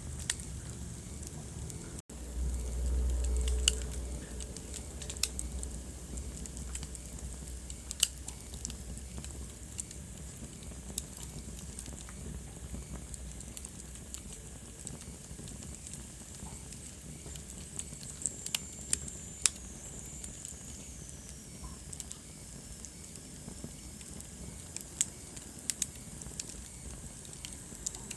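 Wood fire burning in a fireplace: scattered sharp crackles and pops over a steady soft hiss. A brief low rumble comes a few seconds in, and a thin falling whistle comes about two-thirds of the way through.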